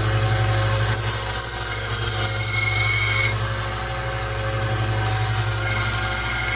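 A 1x30 Rikon belt sander with a 1,000-grit belt running with a steady hum while a high-carbon file-steel knife blade is ground on it freehand to raise a burr. The hiss of the blade on the belt swells in two passes, about a second in and again near the end.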